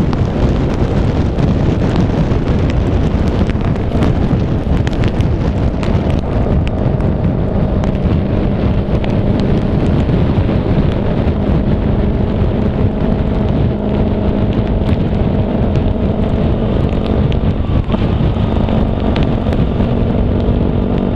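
Car driving on a wet highway in rain: a steady rush of tyre and road noise, with many small clicks of raindrops. A low, steady hum comes in about six seconds in.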